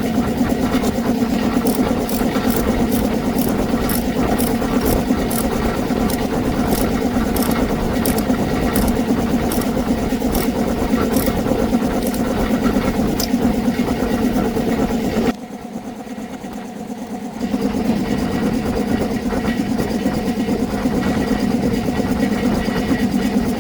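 Small motorbike engine idling steadily, with light regular ticks in the first half. Past the middle it drops away for about two seconds, then comes back.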